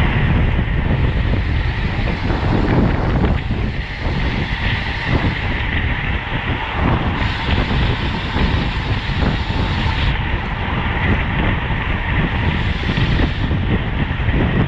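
Steady rush of wind over the microphone and road rumble from a road bicycle at racing speed.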